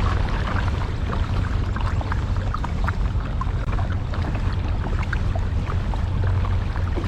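Steady rush of river water around a kayak, with many small splashes and drips.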